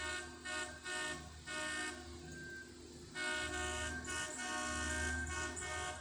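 Locomotive air horn sounding a chord in several short blasts, then a longer blast from about three seconds in, over a steady low rumble.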